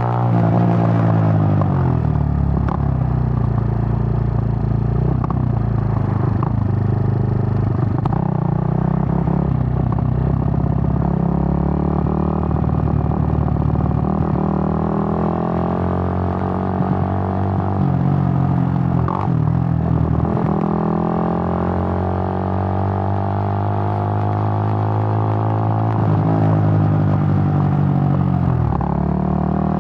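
Suzuki GN125's single-cylinder four-stroke engine pulling under way. The note climbs steadily, then drops and climbs again a few times, near the start, a little past halfway and near the end, as gears are shifted.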